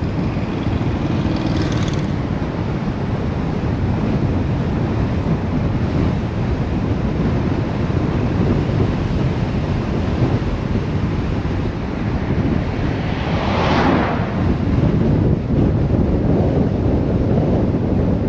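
Steady low road and wind noise of a car driving, with another vehicle swishing past about three quarters of the way through.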